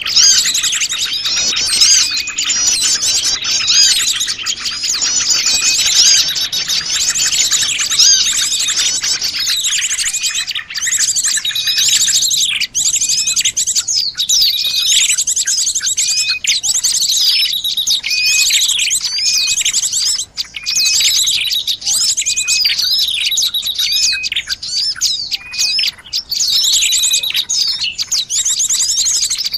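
A busy chorus of many small wild birds chirping, twittering and trilling over one another, used as a lure call for small birds. After about nine seconds it thins to fewer birds, with one short call repeating every second or two.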